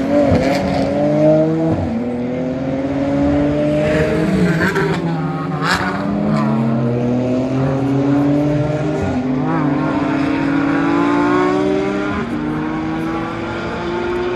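Several GT racing car engines running on the circuit at once, their pitch rising as they accelerate. One drops and then falls in pitch about midway as it goes by.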